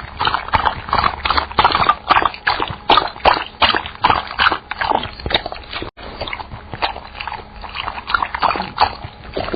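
Dog sound effect: a dog making quick, irregular short sounds, two or three a second, with a brief cut in the sound about six seconds in.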